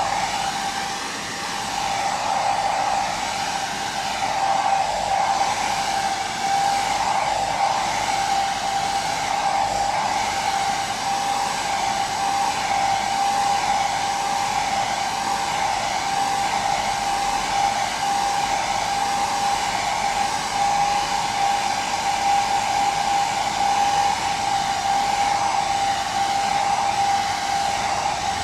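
Electric hair dryer running steadily, a constant rush of air with a steady motor whine.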